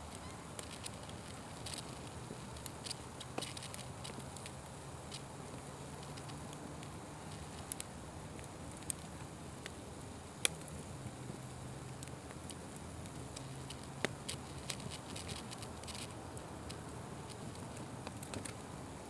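Wood fire burning with a steady hiss and irregular crackles and pops, two sharper pops about ten and fourteen seconds in.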